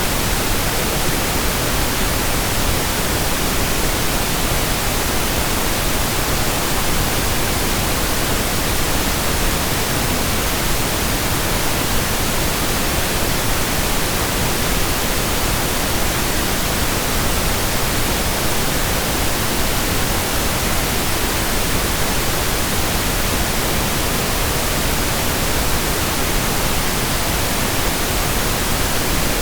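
Steady, unchanging pink noise: an even hiss across all pitches, with more weight in the low end than white noise.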